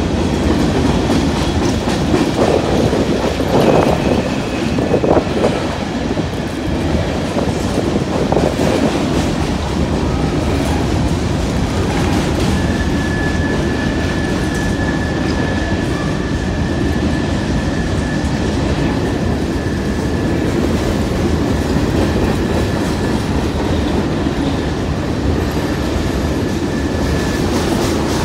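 Covered hopper cars of a freight grain train rolling past, with a steady rumble and wheel clatter on the rail joints. About halfway through, a thin, steady, high squeal joins in and holds until near the end.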